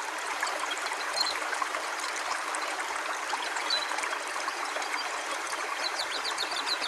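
River water flowing steadily, an even soft rush with no breaks.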